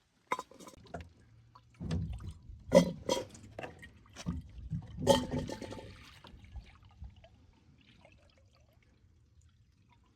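Pot and cooking gear being handled at a camp stove: a run of knocks and clatter with liquid sounds, the loudest hits about three and five seconds in, dying away after about seven seconds.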